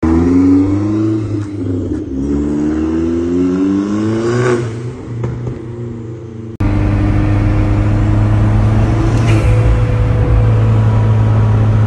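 Hyundai Genesis Coupe 2.0T's turbocharged four-cylinder pulling away, its engine note rising in pitch twice as it accelerates and then fading. After an abrupt cut, a steady low engine drone inside the car's cabin while cruising.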